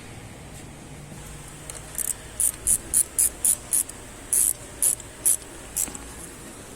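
About a dozen short, sharp hisses of spray, roughly three a second, starting about two seconds in, over a low steady hum.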